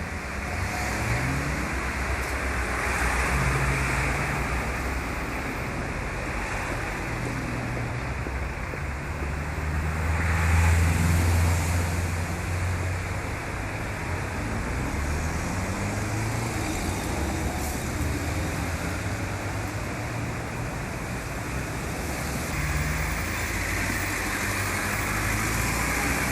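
Road vehicle noise: engines running under a steady rush of road noise, the engine pitch rising and falling.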